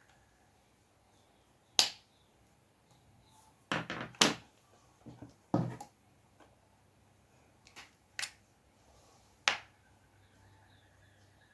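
Sharp, short taps and knocks of hard objects, spaced irregularly, with a quick cluster of several about four seconds in, against a quiet room.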